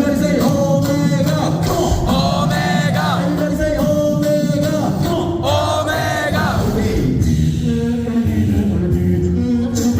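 A beatbox crew performing: several voices sing a gliding melody and harmony over a beatboxed bass line and mouth-made drum hits.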